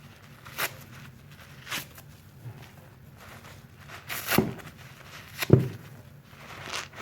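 Soapy sponge squeezed by hand: a series of about six short wet squelches roughly a second apart, the two loudest a little past halfway.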